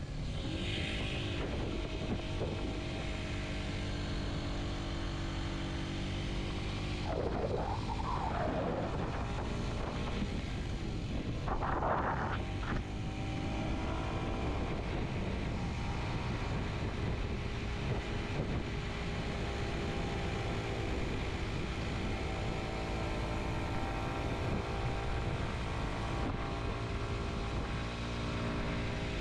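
Kawasaki Z125's single-cylinder four-stroke engine running under way, its pitch dropping and rising again a few times as the rider changes speed, otherwise holding a steady drone.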